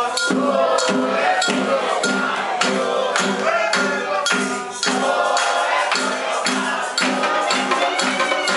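Candomblé chant for Xangô, sung over steady hand percussion with a stroke about every half second.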